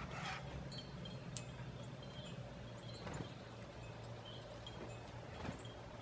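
Small birds at backyard feeders: scattered short, high chirps, and brief whirring wingbeats as birds fly in at the start, about three seconds in and again near the end, over a steady low hum.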